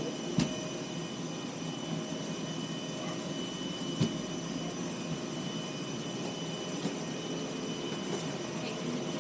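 Steady hum of jet engines and air conditioning heard inside an Airbus A320's cabin, with several constant tones running through it. Two short sharp clicks come about half a second and about four seconds in.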